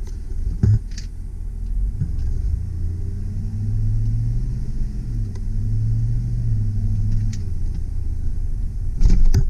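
Chevy Silverado 2500 HD pickup's engine pulling the truck in four-wheel low. Its low note rises and eases off twice. There is a short knock about a second in and a louder thump near the end.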